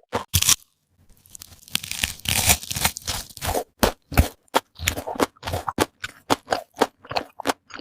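Close-miked crunching and chewing of crispy fried chicken. A couple of sharp crunches, a short pause, then a longer crackling bite of about two seconds. It settles into steady chewing crunches about three a second.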